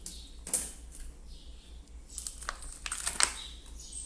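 Slime being squeezed and stretched by hand, giving a few sharp sticky pops and crackles: one about half a second in, then a cluster in the second half.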